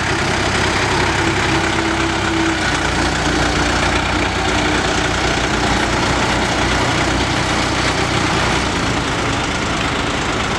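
Willys military truck's four-cylinder diesel engine running steadily.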